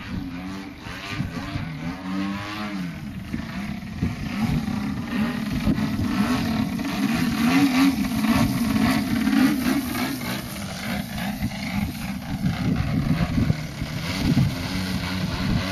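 50cc gasoline engine of an aerobatic RC model aeroplane running in flight, its note rising and falling as the plane manoeuvres, louder in the middle as it comes nearer.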